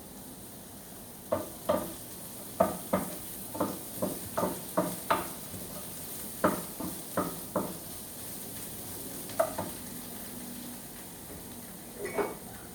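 A utensil knocking and scraping against a pan while stir-frying, in a quick irregular run of strikes for several seconds, then a few single strikes. Food sizzles in the hot oil underneath.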